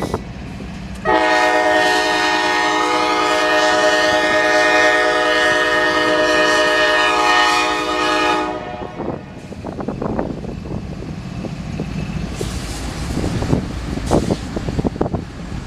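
Diesel locomotive horn sounding one long steady blast of about seven seconds, starting about a second in, from a CSX GE ES44DC leading the juice train. After the horn stops, the rumble and clatter of the locomotives and train rolling past.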